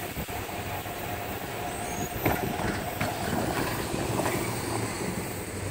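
Steady low rumble of a freight train moving away from a grade crossing as the crossing gate arms rise, with a few faint clicks.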